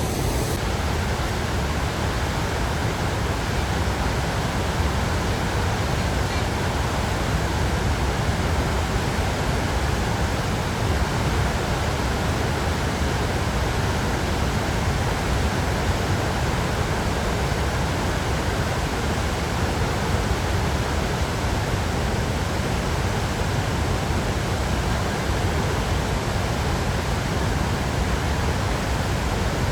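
Steady roar of the Great Falls of the Passaic River, a 77-foot waterfall: an unbroken rushing of falling water with strong low rumble, unchanging throughout.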